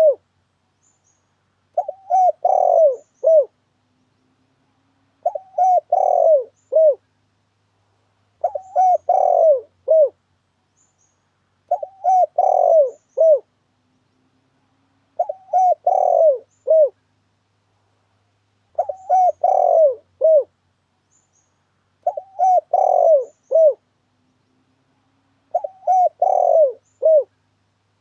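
Spotted dove (tekukur) cooing its lure call: the same short phrase of three or four low coos, repeated about every three and a half seconds with silence between.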